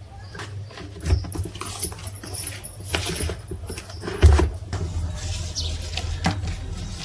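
Scattered clicks and knocks over a steady low hum, with a heavy thump about a second in and a louder one about four seconds in.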